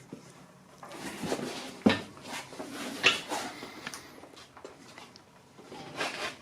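A few knocks and clattering handling sounds, the sharpest about two and three seconds in, and another short clatter near the end.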